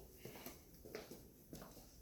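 Near silence in a small room, with a few faint, soft footsteps about half a second apart as the person holding the camera walks on.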